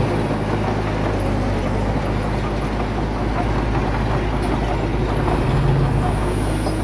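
Bulldozer's diesel engine running steadily: a constant low engine drone under a dense mechanical noise, with no break or change in pace.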